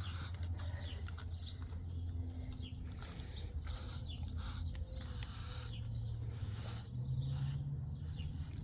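Small birds chirping now and then, short high chirps scattered through, over a steady low background rumble.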